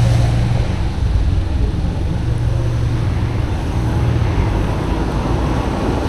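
Steady low rumble of wind and road traffic heard while riding a bicycle along a busy street.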